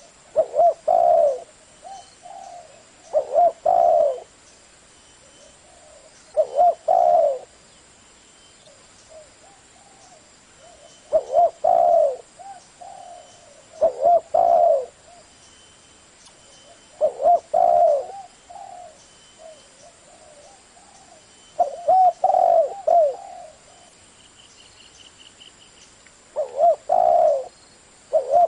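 Spotted dove cooing: about eight separate short phrases of several low, curving coo notes, each phrase followed by a pause of a couple of seconds.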